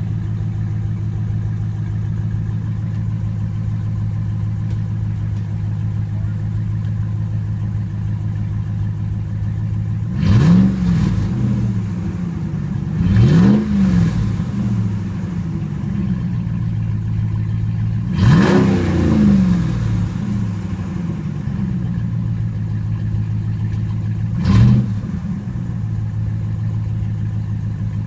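2013 Ram 1500 pickup's engine running through a straight-piped exhaust: a steady, loud idle, blipped four times about ten, thirteen, eighteen and twenty-four seconds in, each rev rising quickly and falling back to idle, the third held a little longer.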